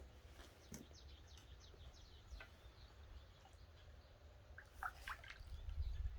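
Faint birdsong outdoors: a quick run of short falling chirps in the first couple of seconds, then a few scattered calls, over a steady low rumble of wind on the microphone.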